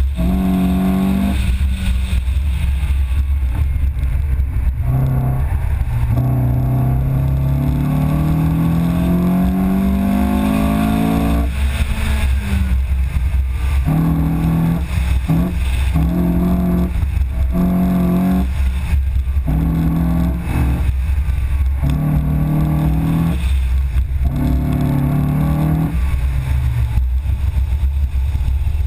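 Car engine during an autocross run: it climbs steadily in pitch as the car accelerates, then comes on and off the throttle in short repeated bursts through the cones, settling lower near the end. A constant heavy wind rumble sits on the microphone underneath.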